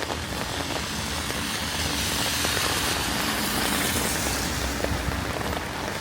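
A vehicle passing on a wet road: its tyre hiss and engine swell up and fade away over a steady patter of rain.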